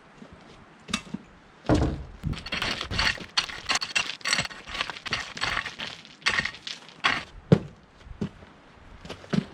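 Irregular wooden knocks and thunks with scraping and clattering in between, boards being handled and knocked into place; the sharpest knock comes about seven and a half seconds in.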